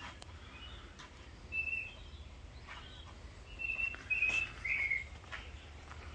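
Birds chirping: a few short, high whistled notes, one of them slurring downward, spaced about a second apart, over a steady low rumble.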